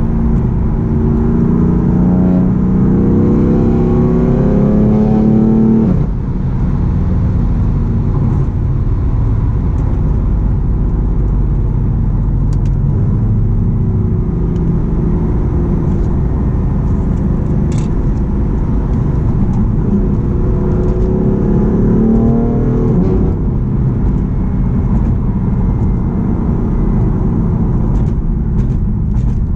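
BMW M4's twin-turbo inline-six with an Akrapovic full exhaust system accelerating, its revs climbing for about six seconds before dropping off suddenly. It then runs steadily, and the revs climb again briefly about twenty seconds in.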